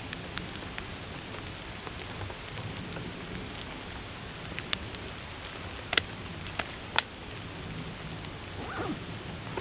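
Steady rain falling, with a few sharp, louder drop hits about five, six and seven seconds in.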